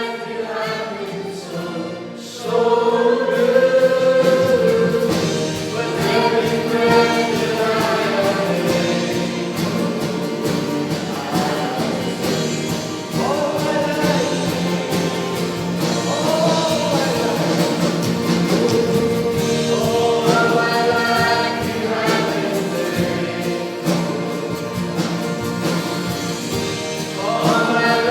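A choir singing a gospel hymn, several voices together in a sustained melody, swelling louder about two and a half seconds in.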